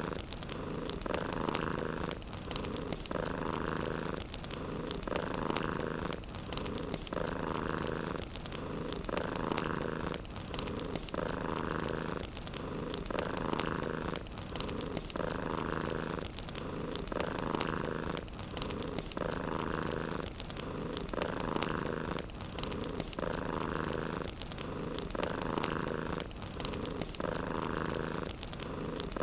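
Domestic cat purring steadily, the purr swelling and easing with each breath about every two seconds, over faint fireplace crackle.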